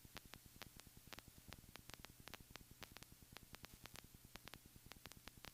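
Near silence: the cockpit sound drops out completely, leaving only faint, irregular ticking, several ticks a second.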